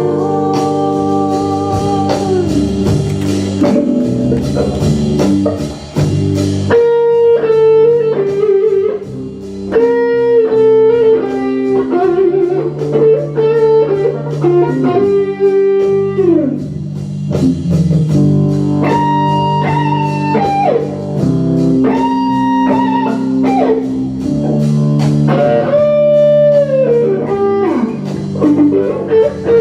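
Live praise band playing an instrumental break in a slow worship song: a guitar plays a lead melody of held notes, some of them bent or sliding down, over bass and a steady beat.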